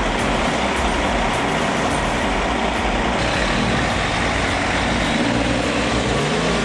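Heavy equipment's diesel engine running steadily, with a dense mechanical noise over it.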